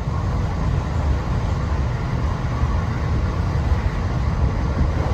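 Steady running noise of a JR Special Rapid Service electric train heard on board: a low rumble of wheels on rail with an even hiss.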